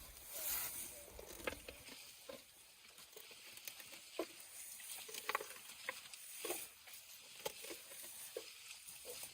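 Faint rustling of leafy branches and dry vegetation, with scattered small snaps and crackles, as elephants handle and pull at foraged branches.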